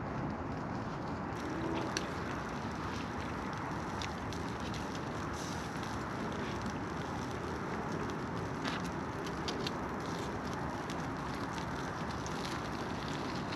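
Campfire crackling, with irregular small pops and snaps over a steady rushing background noise.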